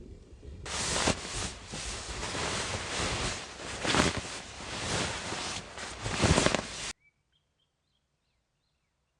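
Loud rustling noise that swells and fades unevenly, then cuts off abruptly about seven seconds in. A few faint bird chirps follow in the near silence.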